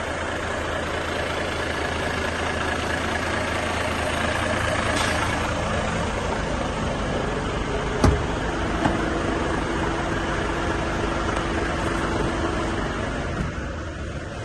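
Volvo FH 500 truck's diesel engine idling steadily. A sharp knock comes about eight seconds in, with a smaller one just after.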